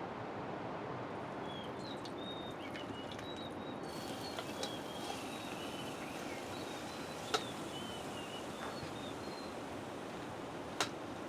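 Steady rain falling, with a bird chirping in short high notes through most of it. Two sharp taps stand out, one past the middle and one near the end.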